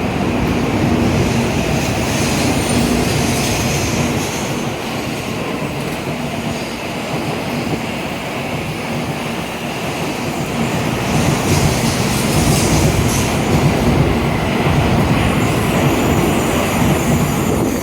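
N700a-series Shinkansen train pulling out of the station, its cars running steadily past, with the noise swelling about eleven seconds in.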